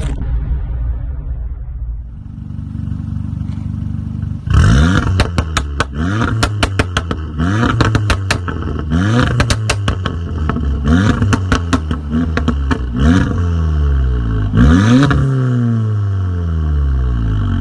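Audi S3's turbocharged four-cylinder through an Armytrix aftermarket exhaust, idling and then blipped in a series of quick revs from about four seconds in, with sharp crackles and pops around each rev as the pitch falls; after the last rev it settles back to idle.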